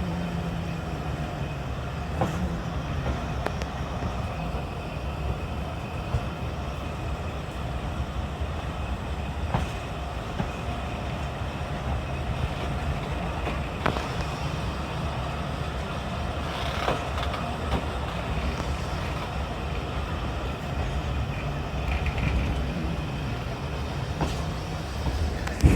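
Train running on the rails: a steady low rumble with a few scattered sharp clicks.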